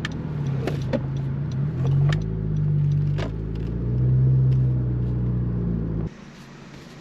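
2017 Honda Civic's engine running as the car creeps forward, swelling a little twice, with a few sharp clicks; it cuts off suddenly about six seconds in.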